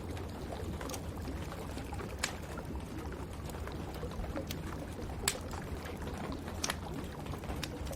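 Wood fire crackling in a fireplace, with a few sharp pops standing out (the loudest about five seconds in), over a steady hiss of rain.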